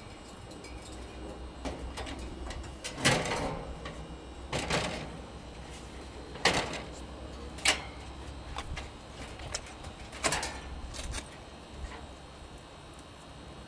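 Intermittent scrapes and sharp knocks as electrical wires are worked through a tight fitting on an HVAC condenser unit, with a few louder clacks spaced a second or more apart.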